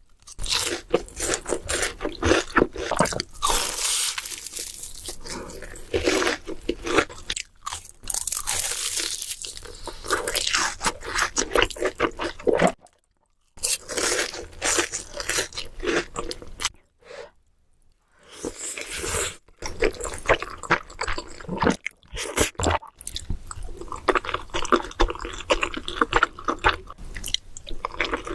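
Close-miked eating sounds: a person biting and chewing crunchy food, with dense irregular crunching and crackling, broken by two short silences about halfway through.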